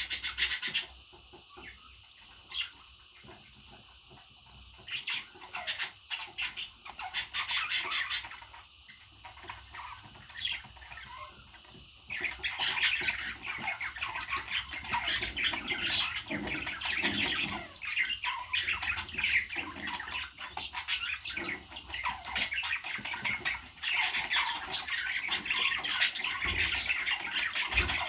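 Parrot squawking and chattering: a few harsh loud squawks in the first part, then from about halfway a long run of busy, rapid chatter.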